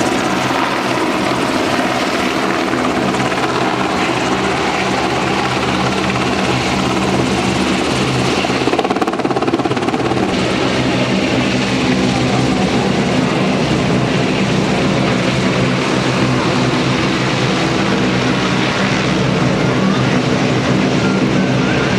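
UH-60J helicopter flying a display manoeuvre: loud, steady rotor and twin turboshaft engine noise, briefly duller about nine seconds in.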